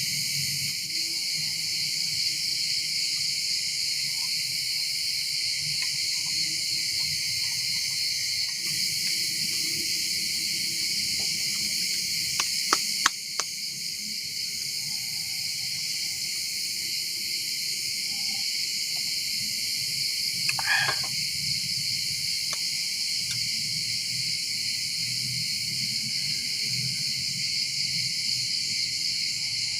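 Steady, high-pitched chorus of insects trilling without a break. A few sharp clicks come about halfway through, and a short separate sound about two-thirds in.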